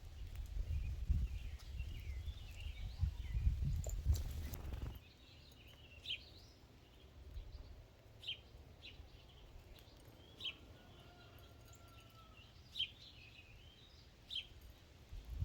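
Small songbirds calling: a twittering warble under a low rumble for the first few seconds, then short, sharp chip notes repeated every second or two once the rumble stops about five seconds in.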